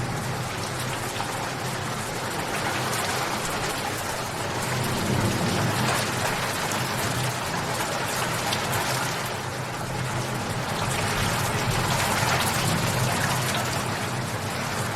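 Steady rain falling, a dense patter of drops on a surface that swells slightly twice and eases back.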